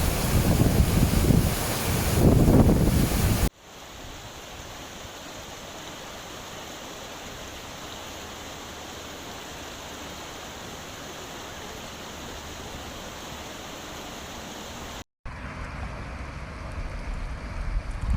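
Rushing floodwater with wind buffeting the microphone, cut abruptly a few seconds in to a quieter, steady rush of flowing water, then after a short dropout near the end to another louder stretch of rushing water and wind.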